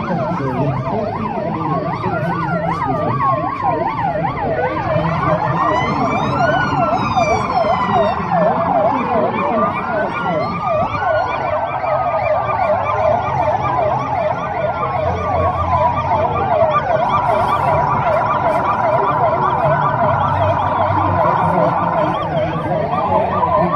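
Several emergency-vehicle sirens sounding at once, overlapping fast yelps and slower rising-and-falling wails.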